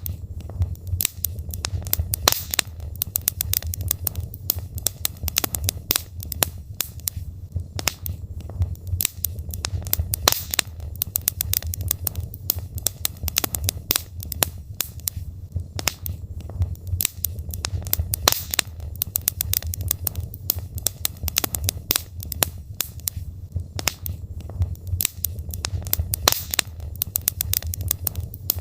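Burning logs in a fireplace crackling and popping: many sharp, irregular pops over a steady low rumble of the fire.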